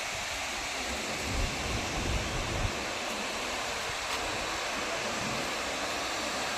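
Abbi Falls waterfall rushing: a steady, even roar of falling water, with brief low rumbles on the microphone about a second and a half in.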